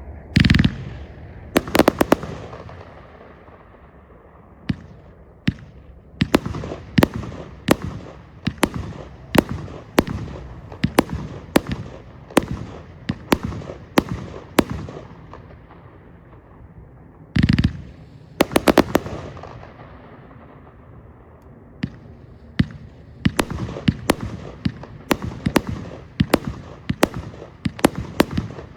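A 138-shot compound firework cake with 25 and 30 mm tubes firing shot after shot. Sharp reports come at a steady pace of roughly one every two-thirds of a second. Two heavier booms, one right at the start and one about 17 seconds in, are each followed by a quick cluster of shots.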